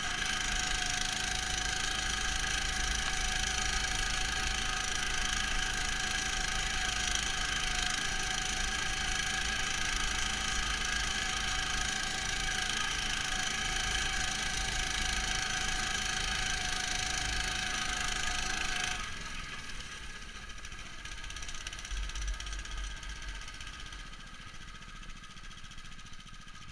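The Neva MS-1's engine runs steadily under load, muffled because the camera sits inside a protective box. About nineteen seconds in the sound drops off sharply and becomes much quieter, as the engine is throttled back.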